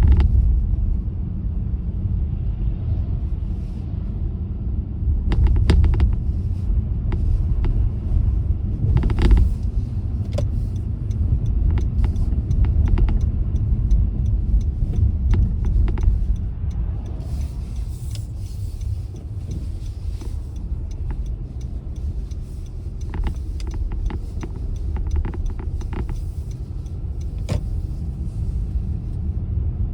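Car driving on a snowy road: a steady low rumble of tyres and engine, with many short clicks and knocks scattered through it.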